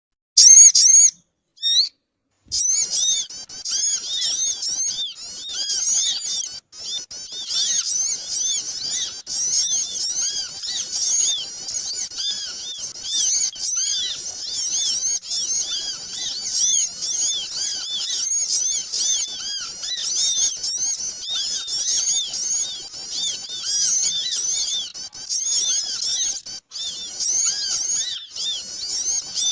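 Busy chorus of many small birds chirping rapidly, with high overlapping calls packed closely together, after two brief chirps and a short pause at the start. This is a bird-lure recording played to draw small birds in.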